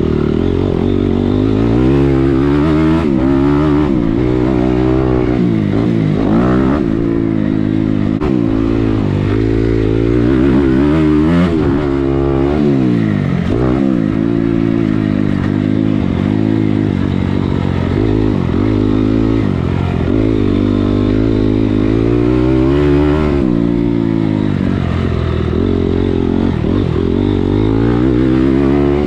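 Motocross dirt bike engine revving hard, its pitch rising and falling over and over as the throttle is opened and shut while riding the track.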